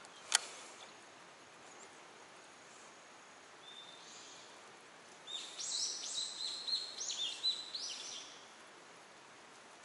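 A bird singing a run of high chirping phrases from about five to eight seconds in. A single sharp click comes just after the start.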